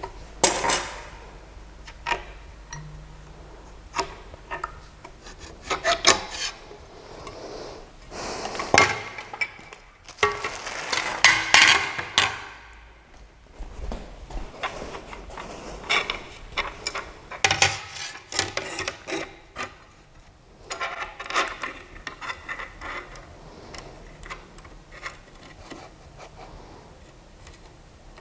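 Irregular rubbing, scraping and clicking of small parts being handled by hand, in uneven bursts with short sharp knocks; no machine running.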